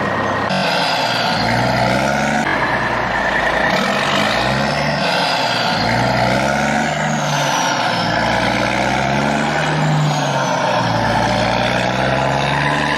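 Truck engine sound, revving up and down in repeated swells every couple of seconds, with abrupt joins typical of an added sound-effect track.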